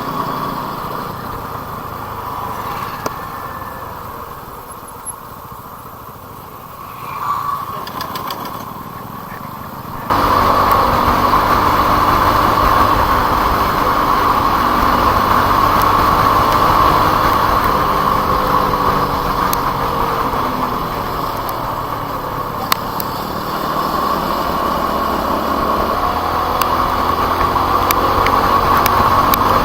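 Motorcycle running on the road with steady wind and engine noise. The sound is quieter for the first ten seconds, then jumps abruptly louder and stays steady.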